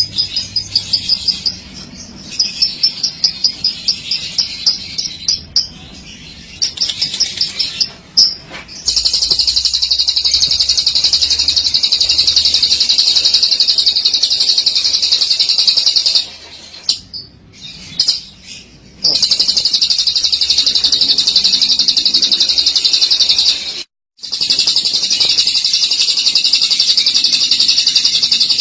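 Lovebird singing its long 'ngekek' song: short high chirps at first, then about nine seconds in a dense, unbroken high-pitched chattering trill. The trill stops briefly twice before running on.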